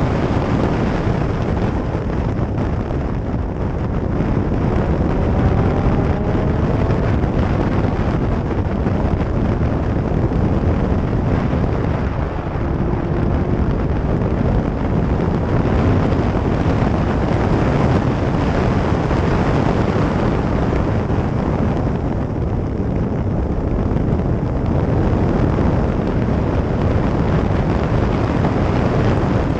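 A vehicle driving, with a steady rumble and wind buffeting the microphone; a faint rising engine note comes through a few seconds in.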